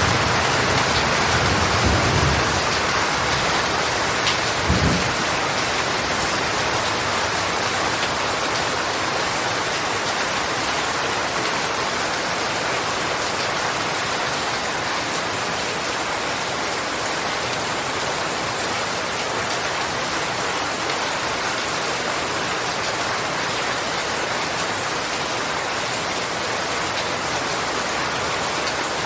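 Steady, heavy rain falling in a continuous hiss of drops. A low rumble fades out over the first couple of seconds, and there is a short low thump about five seconds in.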